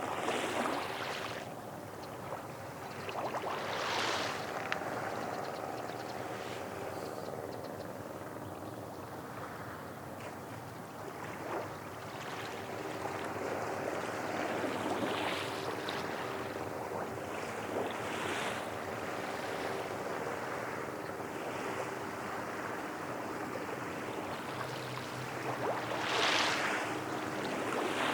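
Small waves washing in on the shore, surging every few seconds, over a faint steady drone of a distant engine.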